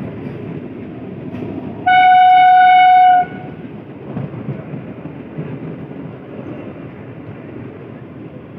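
Electric local train running with a steady rumble; about two seconds in, one loud, single-pitched train horn blast sounds for just over a second.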